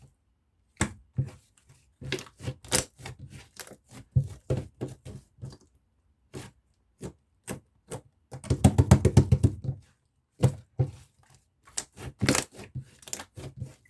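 Mixed slime being squeezed and poked by hand, giving sharp clicks and pops of trapped air. About eight seconds in there is a quick run of pops, around ten a second.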